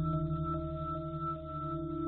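Steady electronic drone of several held tones stacked about an octave apart, the lowest one pulsing rapidly; presented as a NASA Voyager recording of Uranus's rings.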